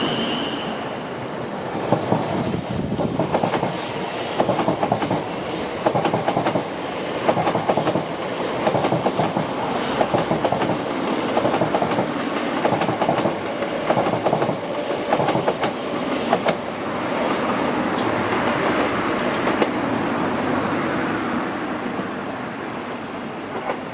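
Passenger train running along the tracks, its wheels clicking rhythmically over rail joints in repeated groups. A high wheel squeal dies away in the first second. After about 17 seconds the clicks give way to a steadier rumble that fades near the end as the train moves off.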